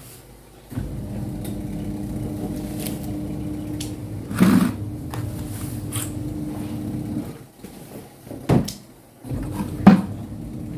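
Semi-automatic washing machine's spin-dryer motor humming steadily, cutting out about seven seconds in and starting again near the end, with a few loud knocks along the way.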